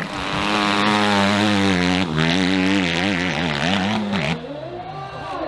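Dirt bike engine revving hard, its pitch rising and falling quickly as the throttle is worked, with a brief dip about two seconds in; it drops off and falls in pitch about four seconds in.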